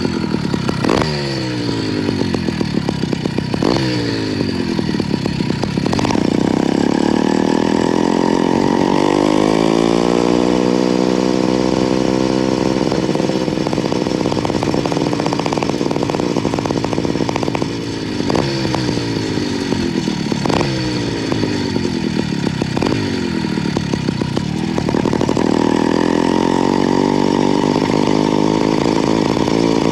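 A motorized bicycle's small two-stroke engine running under way. Its pitch drops off several times as the throttle is let off, then climbs steadily as the bike accelerates, and this happens twice.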